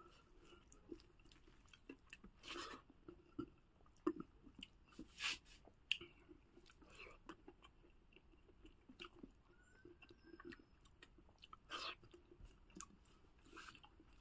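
Quiet close-up chewing of a mouthful of rice and boiled pork, with scattered soft wet mouth clicks and smacks and a few brief louder bursts.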